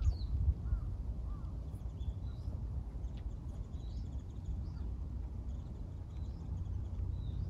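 Birds calling outdoors: short high chirps repeating every second or two, over a steady low rumble.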